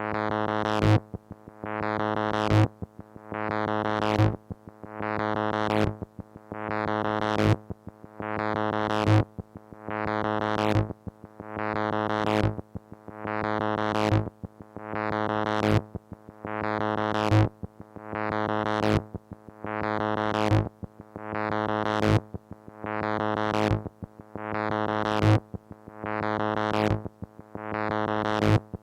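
Moog Mother-32 analog synthesizer, modulated by a Comdyna GP-6 analog computer, holding one steady low note that pulses evenly about every second and a half. Each pulse swells to a sharp bright peak, then its brightness sweeps down.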